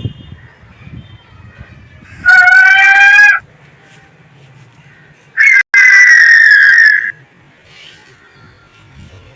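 Two loud, harsh screeching calls of a flying-dinosaur (pterosaur) creature, the first lasting about a second and the second, slightly lower and longer, a few seconds later.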